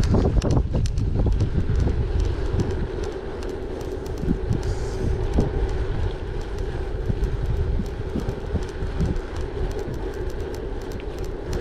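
Gravel bike rolling over a rough track: a steady low rumble of tyres and wind on the microphone, with a constant patter of small clicks and rattles from the stones and the bike.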